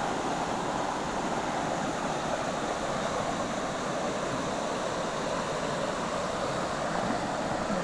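Shallow river water running over stones, a steady rushing noise.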